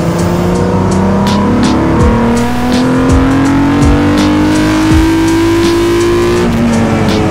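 Toyota MR2 Spyder's engine heard from inside the cabin, pulling up through the revs in one gear, its pitch rising steadily for several seconds before the revs fall away near the end.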